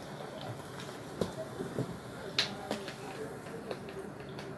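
Close mouth sounds of someone eating pizza: chewing with a few sharp wet clicks and smacks.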